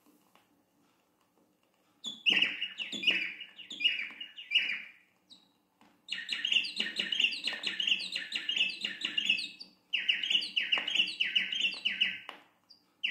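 Corrupião (campo troupial) singing: after a short silence, bouts of fast, repeated downward-slurred notes, several per second, broken by brief pauses.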